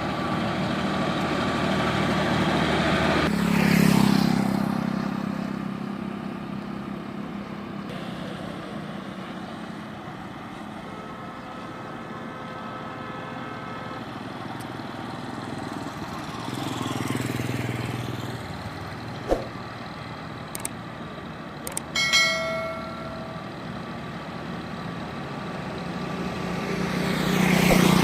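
John Deere 5310 tractor engine running under load with a heavy sugarcane trolley, with road noise. It swells loudest about four seconds in, again midway and near the end, as vehicles pass close. A short horn honk sounds about three quarters of the way through.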